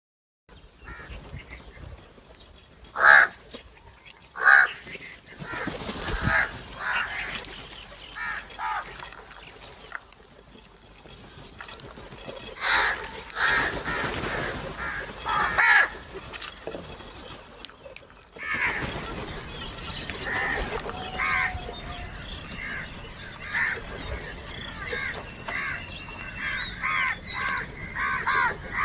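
Crows cawing, several birds calling over one another in short harsh calls, as they squabble over food. The loudest calls come in bunches a few seconds in and again around the middle; after that the calls come thicker and shorter.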